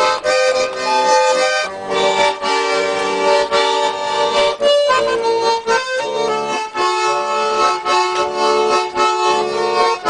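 Garmon, a Russian button accordion, playing an instrumental passage with no singing: a melody over chords, with a rhythmic pulse.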